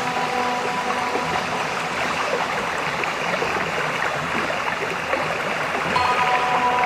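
River water flowing with a steady rushing noise. Soft held musical tones fade out about a second in and come back near the end.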